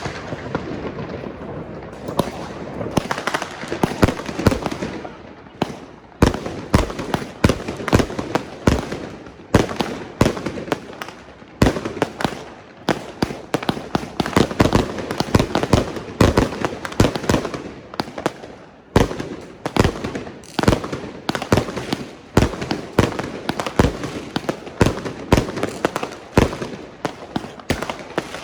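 Massed New Year's Eve fireworks and firecrackers going off all around: a dense, unbroken run of sharp bangs, often several a second, over a steady crackle.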